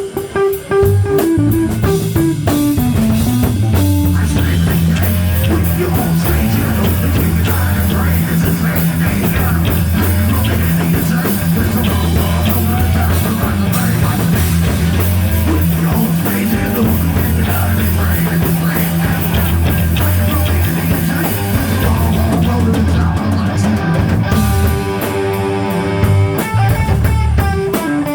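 Live rock band playing an instrumental passage: electric guitar over a loud bass line and drum kit, opening with a descending guitar run. Near the end the low end drops away and the guitar plays on more exposed.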